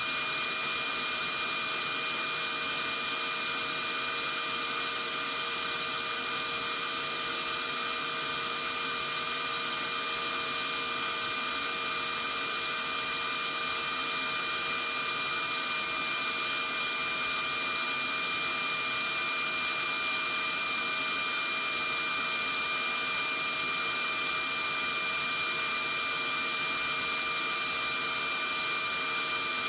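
Vacuum cleaner running steadily: a constant rush of air with several steady whining tones over it, never changing in pitch or level.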